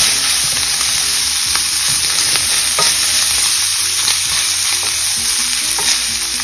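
Boneless chicken pieces with dried red chillies frying in oil in a pan, a steady sizzling hiss, while a wooden spatula stirs them with small scrapes and taps against the pan.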